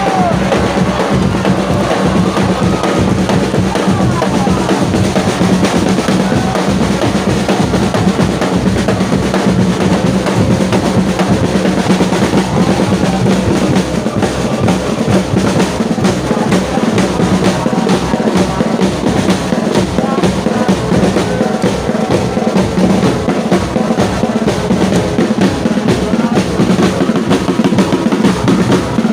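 Football supporters' drums beaten in a fast, steady, unbroken rhythm.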